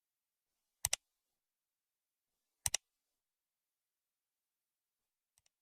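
Sharp double clicks in otherwise dead silence: a loud pair about a second in, another a couple of seconds later, and a faint pair near the end.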